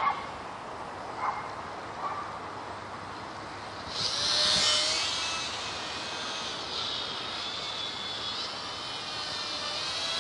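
Electric motor and propeller of a WLToys F949 Cessna-182 RC plane in flight, a high whine that swells suddenly about four seconds in as the plane passes close, then runs on steadily. A few short faint sounds come in the first two seconds.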